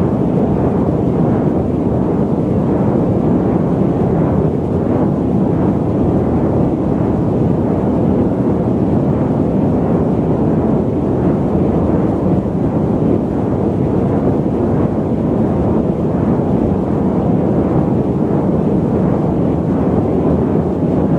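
Loud, steady static noise, a dull rushing hiss with most of its weight in the low and middle range and little treble, unchanging throughout.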